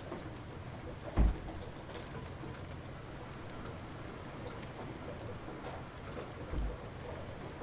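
Light rain falling in a steady patter. A loud low thud comes about a second in, and a softer one near the end.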